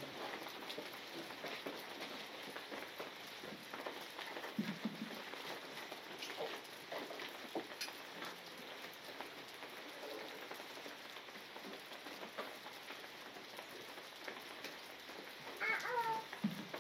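Outdoor ambience of a creek's water running steadily, with faint scattered ticks and a short pitched call near the end.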